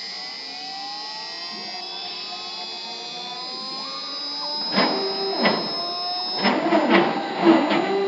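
Stepper motors of a CNC wood router on a test run, driving its axes. Their whining tones glide up and down in pitch, then a little before five seconds in the machine switches to quick short moves: rapid swooping whines broken by sharp clicks.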